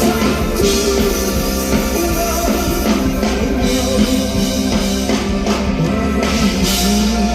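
Live rock band playing an instrumental passage: drum kit and electric guitar, with no singing.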